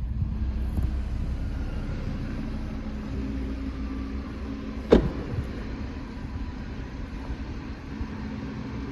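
2018 Audi RS 3's turbocharged 2.5-litre five-cylinder, tuned to APR Stage 3, idling with a steady low rumble. About five seconds in, a car door shuts with a single loud thud.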